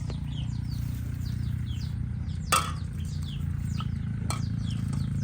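Small birds chirping over and over in short, falling notes, over a steady low rumble. A sharp knock about two and a half seconds in is the loudest sound, with a fainter one later.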